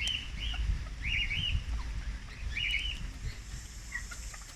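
A bird chirping: short, arching high calls in quick pairs and groups through the first three seconds, then a few fainter chirps, over a steady low rumble.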